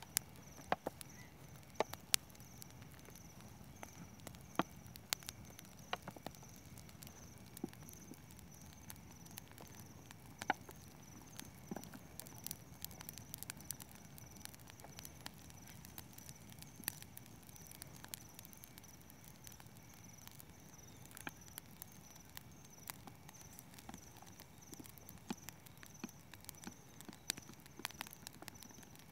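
Campfire crackling, with irregular sharp snaps and pops at uneven gaps. A steady high insect trill runs beneath it.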